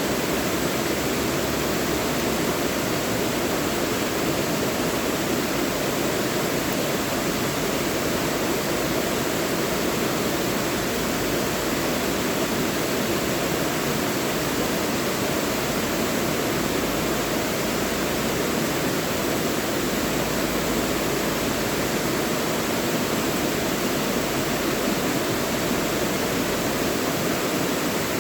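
Mountain valley stream rushing steadily over rocks, a constant full water noise with no breaks.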